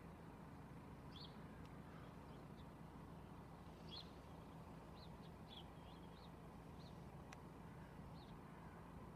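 Near silence with small birds chirping faintly: short, high chirps scattered through, over a steady low background hum, and a single faint click about seven seconds in.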